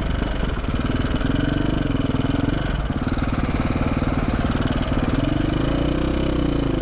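KTM 450 SX-F's single-cylinder four-stroke engine running at low revs on the trail, its pitch rising and falling gently with the throttle. It has a valve tick that the rider calls pretty apparent and too loud, and which he puts down to worn rocker arms.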